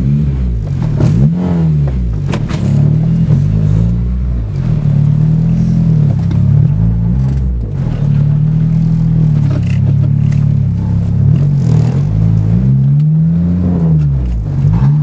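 Exhaust of a turbocharged 2006 Acura RSX Type-S's four-cylinder engine, breathing through a Skunk2 MegaPower R 76 mm exhaust. The engine note rises and falls again and again, with steady stretches between the revs.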